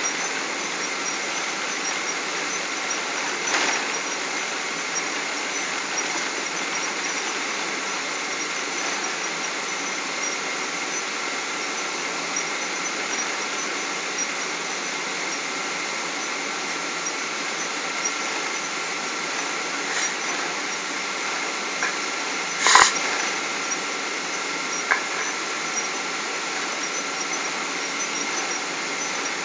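Steady jet engine and airflow noise inside the cabin of a Boeing 777 airliner, with a thin steady whine running through it. A few short knocks sound in the cabin, the loudest about two-thirds of the way in.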